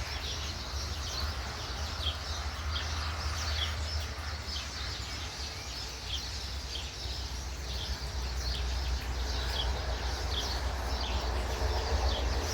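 Small birds chirping, many short high chirps a few times a second, over a steady low rumble.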